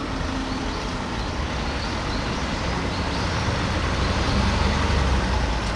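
Large police vehicles driving past in a parade column, a heavy engine rumble with road noise that swells as one passes close about four to five seconds in.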